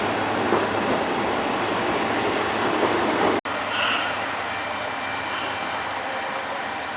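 Diesel railcar running on the line, a dense rumbling rail noise; it breaks off suddenly about halfway, after which a quieter, steady engine sound with faint held tones continues.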